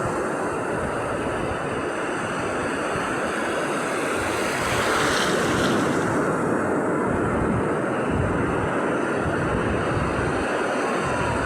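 Sea waves surging on the shore: a steady wash of surf, with one wave breaking louder about five seconds in.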